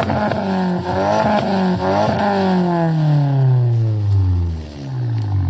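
Car engine revving, its pitch rising and falling several times, then sinking slowly over the last couple of seconds.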